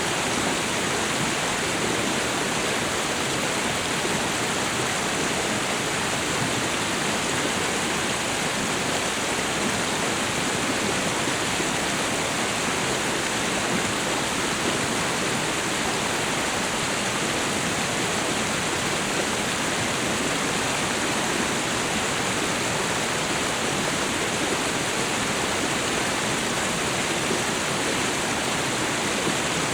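Waterfall and river water rushing, a steady even roar with no breaks.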